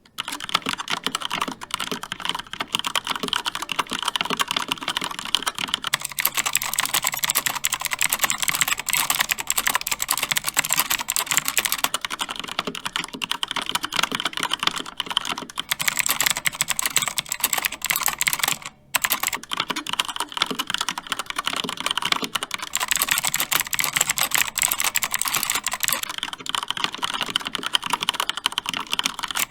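Fast continuous typing on mechanical keyboards, Cherry MX Red linear switches against Outemu Blue clicky switches, as dense overlapping key clicks. The character of the clatter changes every few seconds, switching between a brighter, sharper clicking and a duller one. There is a brief break about two-thirds of the way through.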